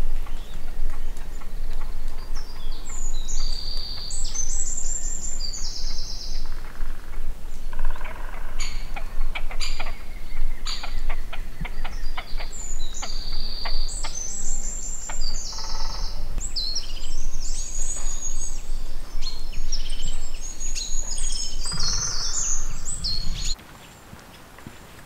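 Songbird singing in spring: several high, stepped song phrases, repeated about three times with short pauses, over a steady low rumble that cuts off sharply near the end.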